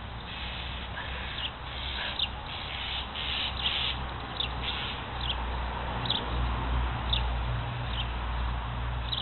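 A bird chirping repeatedly, short high calls about once a second, over a steady low rumble that grows stronger past the middle.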